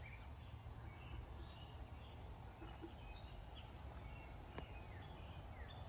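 Quiet outdoor ambience: faint bird chirps, short falling notes repeated irregularly, over a low steady rumble, with a faint click a little past halfway.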